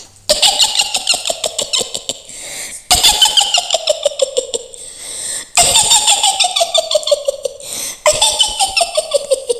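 A woman's high cackling witch laugh in the style of Mak Lampir, four times, each a rapid run of laughing pulses that slides down in pitch.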